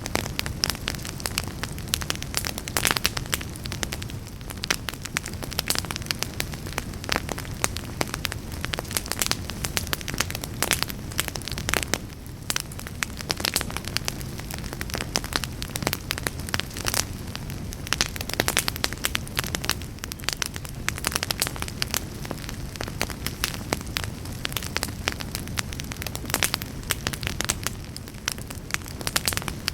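Wood fire burning in a fireplace: a steady low rumble of flames with many sharp crackles and pops scattered throughout.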